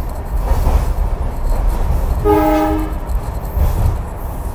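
Steady rumble and rattle of a heritage passenger train running, heard from inside the carriage, with one short toot from the locomotive about halfway through.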